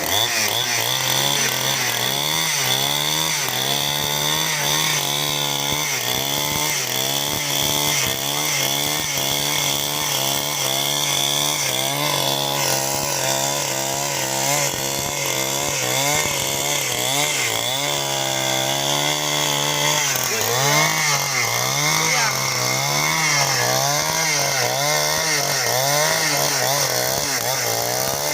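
Chainsaw running at high revs while cutting timber lengthwise into battens. Its engine note wavers up and down as the cut loads it, with the waver growing stronger near the end.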